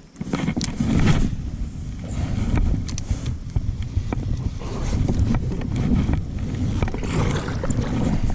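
Wind rumbling on the microphone and water moving around a kayak, with a few light knocks about three seconds in.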